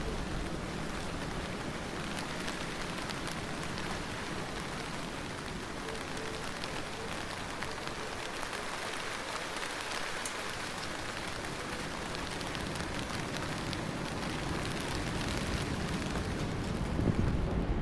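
Steady rainstorm: rain falling hard and evenly, with many individual drops ticking through it. Near the end it swells louder, with more low rumble.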